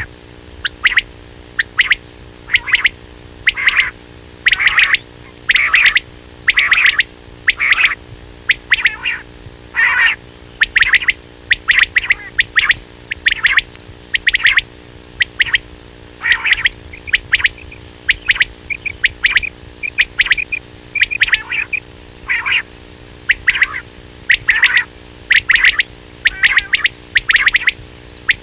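Quail calling over and over: short, sharp calls in quick succession, a few every couple of seconds, over a faint steady hum.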